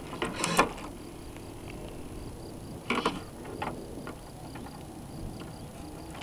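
Water splashing against the hull of a radio-controlled North Wind 360 sailboat, picked up by a camera mounted on board: short splashes, the loudest just under a second in and another about three seconds in, over a faint steady high tone.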